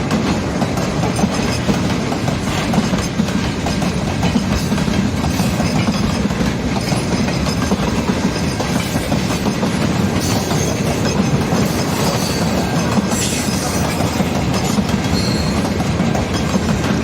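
Freight train cars rolling past at a steady pace, wheels clattering over the rail joints with a continuous rumble.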